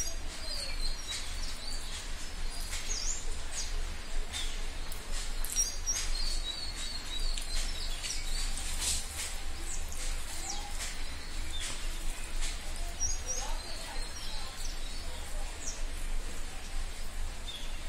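Small birds chirping in short, high, repeated chirps, mixed with the soft clicks and smacks of someone chewing a mouthful of rice eaten by hand. A steady low hum runs underneath.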